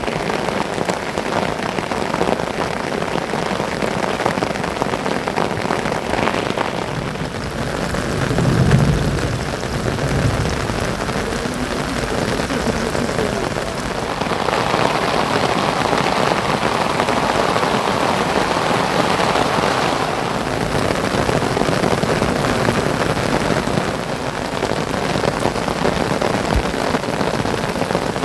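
Heavy monsoon rain falling steadily on surfaces, an even hiss. A brief low rumble about nine seconds in, and the rain thickens for several seconds in the middle.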